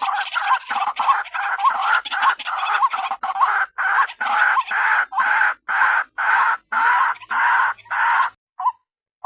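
White-breasted waterhen calling: a harsh, repeated croaking 'ruak-ruak' series, fast and crowded at first, then slowing to about two long notes a second before breaking off near the end into a few short notes. This is the female's call, used as a trapping lure.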